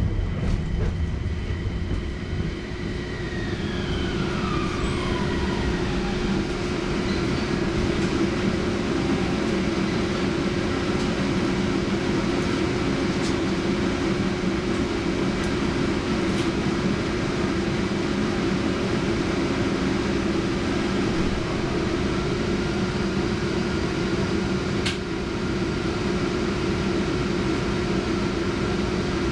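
Inside a Toyama Chihō Railway Centram low-floor tram: the electric motor whine falls in pitch as the tram brakes to a stop in the first few seconds. A steady hum runs while it stands, and about 21 seconds in a rising whine begins as it pulls away, with a sharp click a few seconds later.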